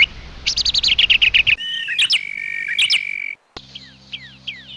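Songbirds calling in a few short spliced-together recordings: a fast run of chirps, then a held whistled note with sharp calls over it, then, after a brief gap, a string of quick falling chirps.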